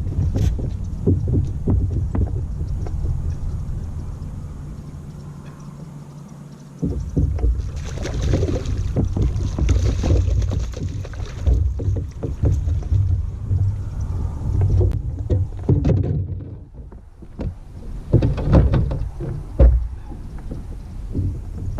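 Noise of a fishing kayak on the water: a low rumble of water and hull with irregular knocks and bumps. The rumble dies away and returns abruptly about seven seconds in.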